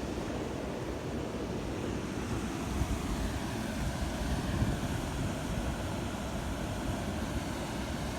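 Wind buffeting the microphone: a steady low rushing rumble that swells and dips, with a faint hiss above it.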